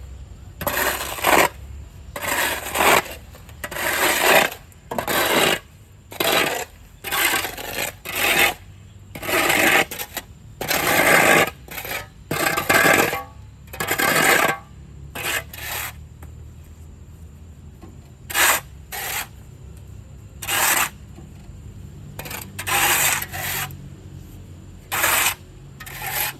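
Shovel scraping through wet sand in repeated gritty strokes, roughly one a second, some drawn out longer.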